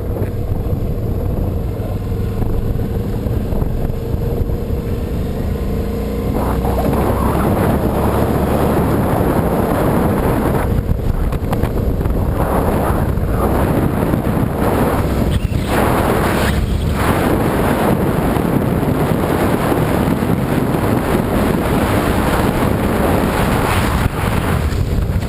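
Motorbike engine running under way with heavy wind rushing over the microphone. About six seconds in, the wind noise swells and largely covers the engine tone.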